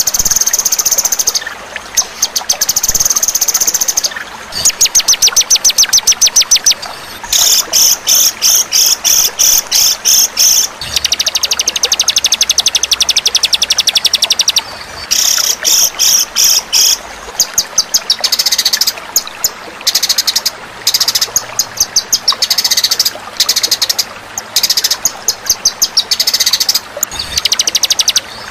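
Songbird song: fast trills and rapidly repeated high chirps, coming in bursts of one to three seconds separated by short breaks.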